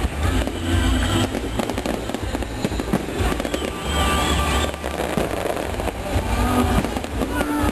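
Fireworks display: dense crackling and bangs over a continuous low rumble, with a few whistling glides.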